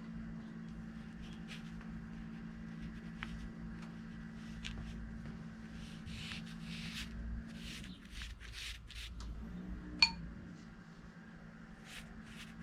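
Brush strokes on paper: a series of short, soft swishes over a steady faint hum, with one sharp click about ten seconds in.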